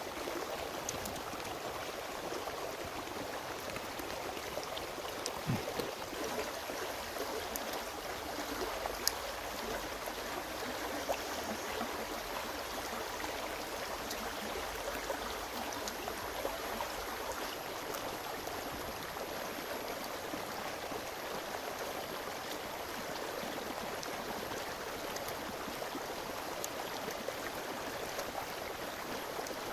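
Steady rushing of a flowing stream, with a few faint clicks and a thin, high steady whine that comes in about six seconds in.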